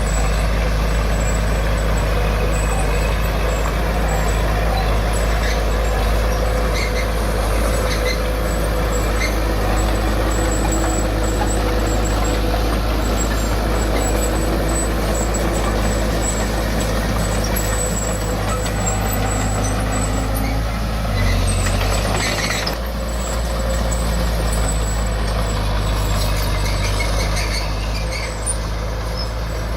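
Heavy diesel earthmoving machinery running steadily under load, a loud continuous engine drone, with a brief noisy change a little over two-thirds of the way through.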